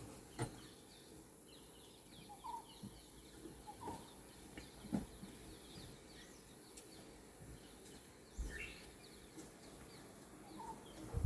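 Faint bird chirping: many short, high chirps in runs, with a few scattered clicks and knocks.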